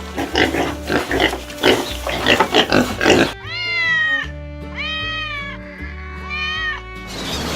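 Animal calls over background music: about three seconds of rapid rough grunting calls, then three drawn-out calls that rise and fall in pitch.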